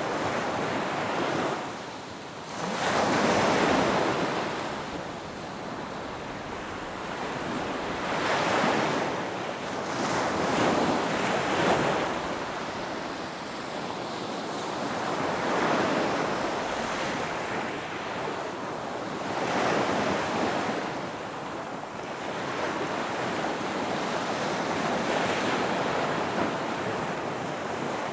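Ocean waves breaking on a beach: a steady wash of surf with a swell every few seconds, each breaking wave building and fading away.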